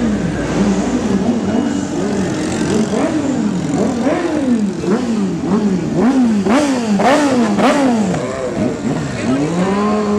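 Motorcycle engine with an open, free-flowing exhaust revved repeatedly while standing in neutral: quick throttle blips, about two a second, each rising and falling in pitch, then one longer rev near the end.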